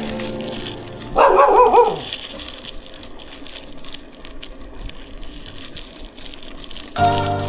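A dog barking: one quick, wavering run of yelps lasting under a second, about a second in.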